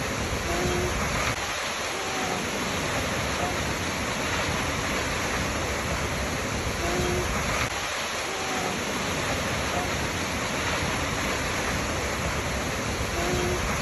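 Waterfall's water rushing steadily. Faint short low tones recur in the same pattern about every six seconds, as in a looped recording.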